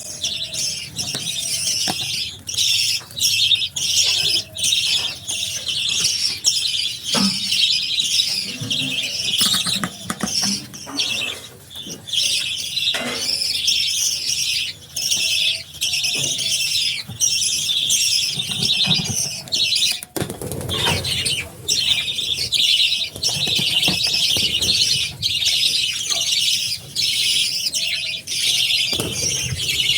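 A flock of budgerigars chattering continuously, a dense high-pitched warble of many overlapping chirps and squeaks.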